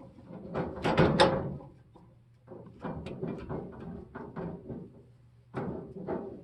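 Adjustable crescent wrenches knocking and scraping against the metal gas pipe fittings and valve as they are set and turned. A loud cluster of clanks about a second in, then a run of lighter clicks and two more knocks near the end.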